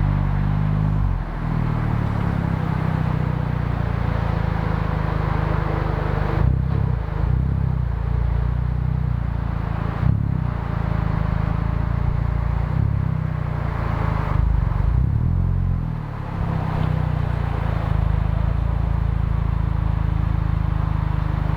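Honda Civic Type R (FK8) 2.0-litre turbocharged four-cylinder exhaust, recorded close at the tailpipe, running at low, fairly steady revs with a few brief breaks in the note. The exhaust is a catted RV6 downpipe and aFe front pipe feeding the stock catback.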